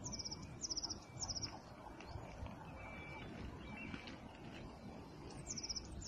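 Small songbirds calling: a high, quick, falling trill three times in the first second and a half and twice more near the end, over a series of short, even, lower whistles. A low rumble runs underneath.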